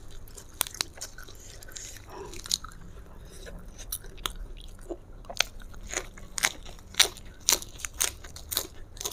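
Close-miked chewing and biting of crunchy food, sharp wet crunches that come sparsely at first and then about twice a second in the second half.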